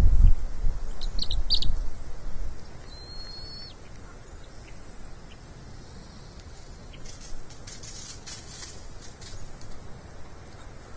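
Short high-pitched bird chirps and a brief whistled note, over low rumbling thumps during the first two seconds. Near the end comes a patch of faint, high, scratchy sound.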